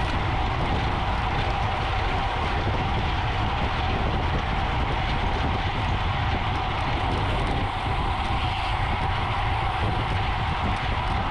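Steady rush of wind and road noise from a road bicycle riding at race speed, with a constant low rumble and a steady hum.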